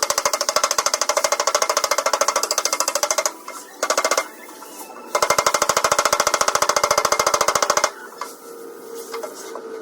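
Rapid, even hammering on the sheet metal of a Ford Ranger's door during panel beating. It breaks off twice, about three seconds in and again for the last two seconds.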